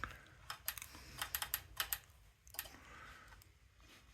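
A quick run of light clicks and ticks in the first two seconds, then softer fiddling: hands working the throttle and choke linkage and spring on a small-engine carburetor.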